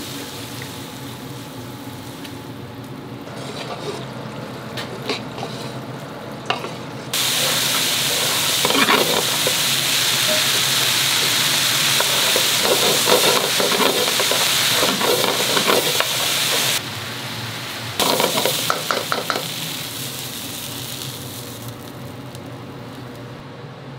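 Ragu sauce ingredients frying and sizzling in a pan as they are stirred. The sizzling grows much louder for a long stretch in the middle, and a utensil clicks against the pan a few times.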